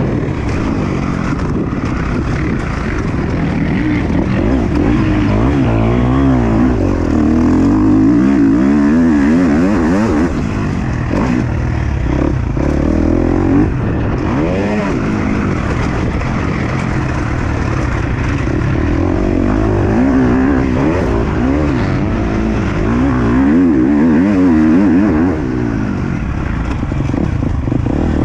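A KTM 250 SX-F four-stroke single-cylinder motocross engine, heard up close, revving up and down again and again as the bike accelerates and backs off around the track.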